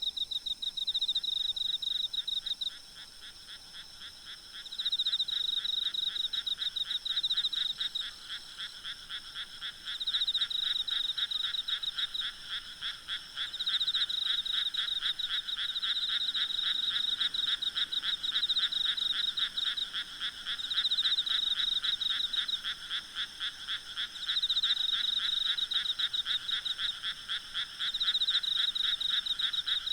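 A night chorus of frogs calling in fast pulsed trills, the bouts lasting a few seconds and overlapping, over a steady high-pitched insect drone.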